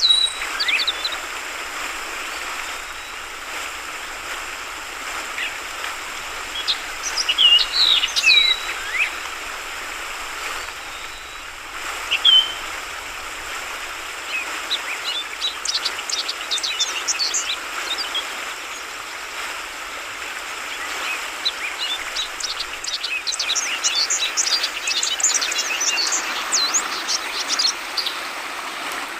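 Trucukan (yellow-vented bulbul) calling in short gliding phrases over a steady hiss of flowing water. In the second half the phrases give way to rapid high twittering.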